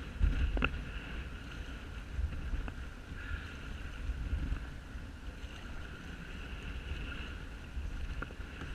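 Strong wind rumbling on the microphone over water splashing around a kayak as it is paddled through choppy sea waves. A few sharp knocks, the loudest about half a second in.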